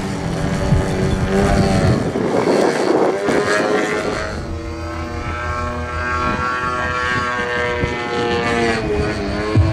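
Radio-controlled model aerobatic airplane's engine buzzing in flight, its pitch falling and rising as it manoeuvres and passes by, with a sharp dip and rise near the end.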